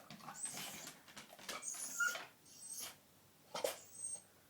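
Pembroke Welsh corgi whining and whimpering in a string of short, breathy sounds, eager to be taken for a walk.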